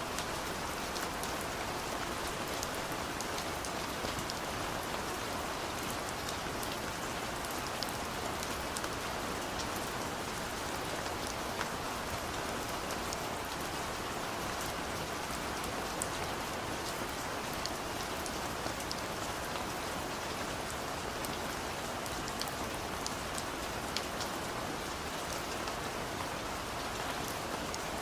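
Steady rain falling on a car, heard from inside the cabin: an even hiss with scattered sharp drop ticks.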